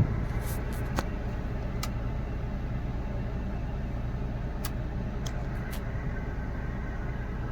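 Hyundai i10's 1.2-litre Kappa petrol engine idling steadily, heard from inside the cabin with the AC running, with a few light clicks. No unwanted noise comes through from the engine side: the cabin noise is okay.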